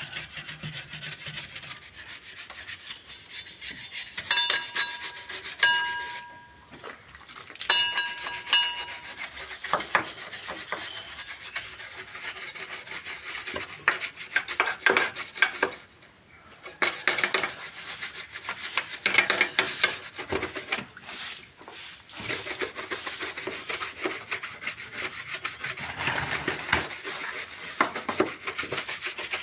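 Repeated rubbing and scraping strokes against a surface, with a squeaky tone between about four and nine seconds in and two brief pauses.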